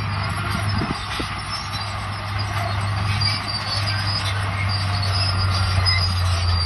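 Crawler bulldozer working: its diesel engine runs steadily under a high-pitched squeal and occasional clanks from the steel tracks.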